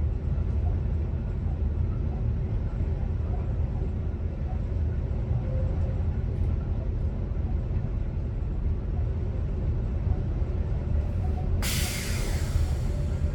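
Commuter train running, heard from the driver's cab as a steady low rumble. Near the end a sudden hiss of compressed air cuts in and fades away over a second or so, typical of an air brake release.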